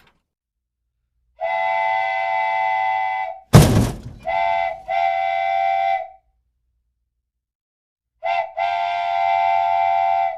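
Train whistle sounding in several-note chord blasts: one long blast, then a loud sharp thump, then a short toot and a long one, and after a pause another short toot and a long one.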